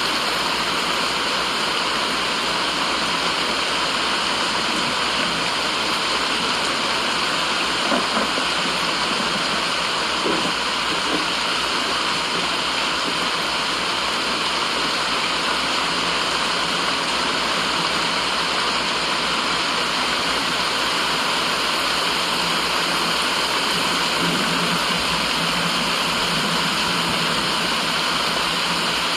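Steady, even rushing hiss of white noise, unchanging in level, with a sound like running water.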